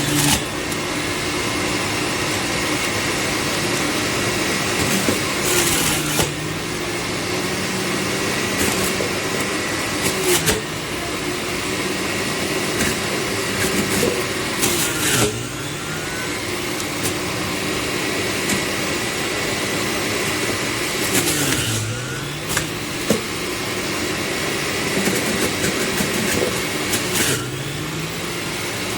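A 400 W centrifugal juicer's electric motor running steadily. Its pitch dips briefly and recovers every few seconds.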